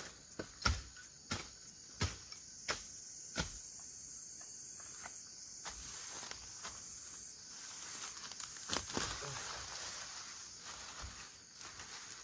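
Seven sharp knocks at a steady pace, about one every two-thirds of a second, over the first three and a half seconds, like blows of a hand tool. After that comes rustling and scraping with a few light clicks. A steady, high insect drone carries on underneath.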